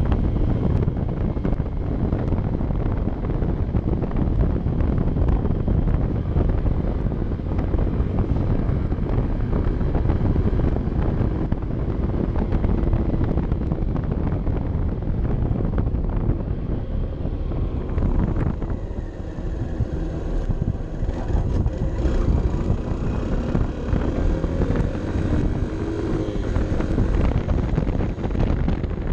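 Honda CB 125 F's single-cylinder four-stroke engine running on the move, under heavy wind buffeting on the microphone. Past the middle the wind eases and the engine's pitch rises and falls with the throttle.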